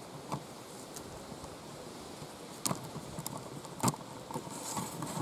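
A few sharp clicks and knocks from a camera tripod being handled as its legs are extended, the loudest about two and a half and four seconds in.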